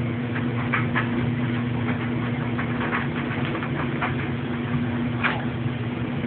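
Steady low hum with scattered soft clicks and scratches over it.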